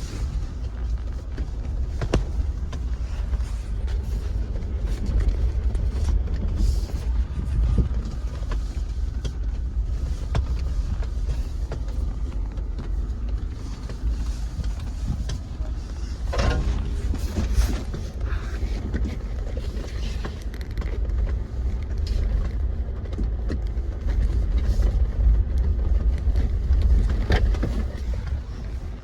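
Jeep driving slowly over a rough, rocky dirt trail: a steady low rumble with scattered knocks and clicks from the uneven ground.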